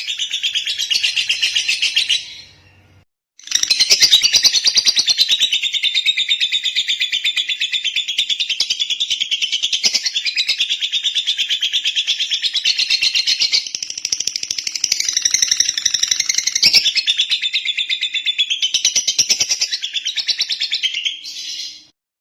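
Lovebird singing: a fast, continuous stream of high chirps and trills. It breaks off briefly about two seconds in, starts again a second later, and stops near the end.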